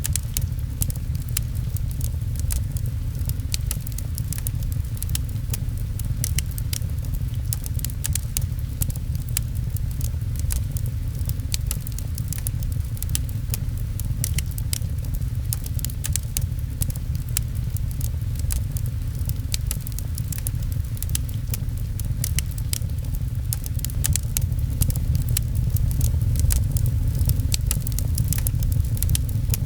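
Wood fire in a fireplace crackling, with frequent sharp little pops, over steady rain heard mostly as a low, even rumble.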